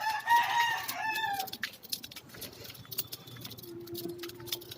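A rooster crowing once, a drawn-out call lasting about a second and a half right at the start, dropping in pitch at the end.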